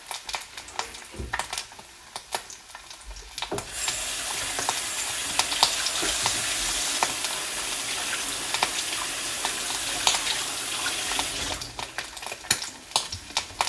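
Sausages sizzling and crackling in a frying pan on a stove. The sizzle swells to a loud, dense hiss about four seconds in and drops back to scattered pops near the end.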